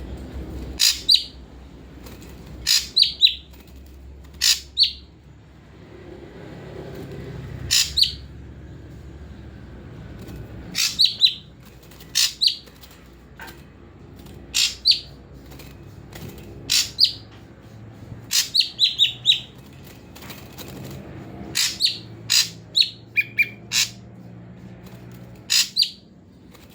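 A songbird calling in short, sharp, high chirps, mostly in quick runs of two to four, repeated every second or two, over a faint low hum.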